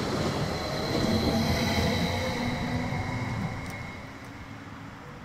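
Electric regional train pulling away from the platform: rumbling wheels on the rails with a steady high motor whine, fading as it moves off about four seconds in.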